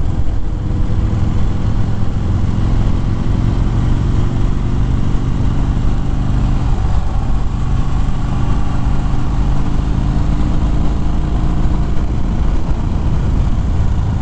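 Harley-Davidson Fat Bob V-twin motorcycle engine running at road speed under a steady rush of wind and road noise; the engine note changes about halfway through.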